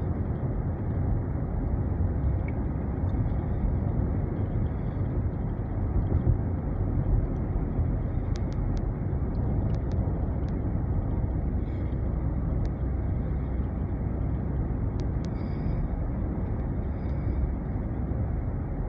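Steady road and engine noise inside a moving car's cabin, an even low rumble with no change in pace, and a few faint light ticks.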